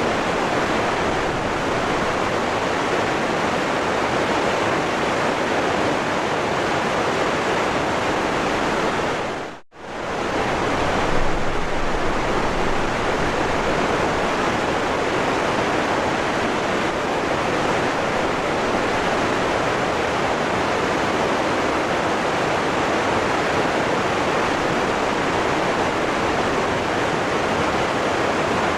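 Waterfall rushing steadily. About ten seconds in, the sound briefly fades almost out and straight back in, like an edit joining two recordings.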